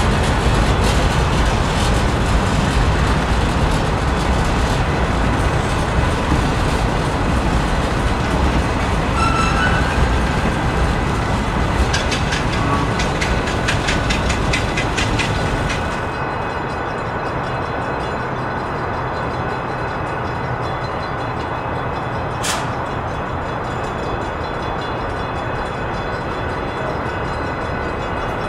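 Union Pacific freight cars rolling past close by, a steady rumble with steel wheels clicking over the rail joints. About halfway through it drops abruptly to a quieter, duller rumble, with one sharp click later on.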